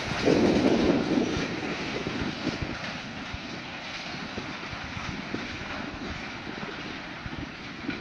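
Freight train cars rolling past on the rails, the wheels clicking and clattering over the track with a steady rumble. It is loudest in the first second or so, then eases slightly.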